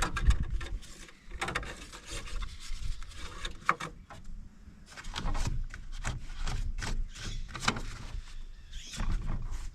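Irregular knocks, clicks and scraping from hands working among parts under a truck's hood.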